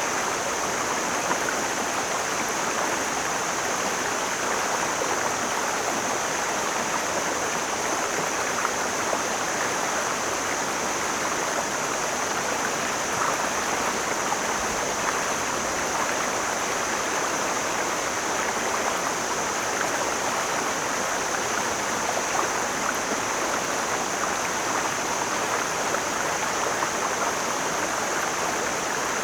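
Mountain stream flowing over rocks: a steady rushing of water that does not change.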